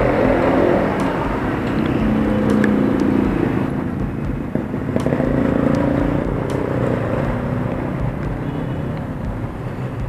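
Street traffic: motor vehicle engines passing, their pitch rising and falling twice.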